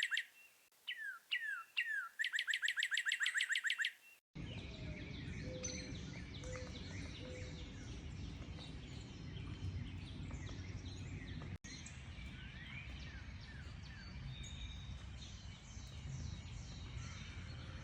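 Birdsong. First a single bird sings a rapid trill of evenly spaced notes, with a few quick down-slurred notes between trills. About four seconds in it gives way abruptly to a dense chorus of many birds chirping over a steady low rumble.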